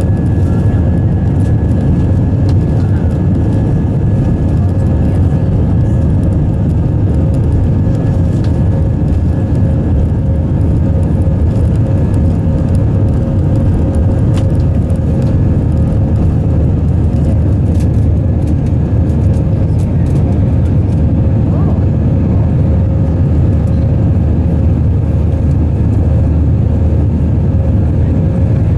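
Steady cabin noise inside an Airbus A319 in its climb: a loud, even rumble of jet engines and airflow, with a constant mid-pitched engine tone and a fainter higher one.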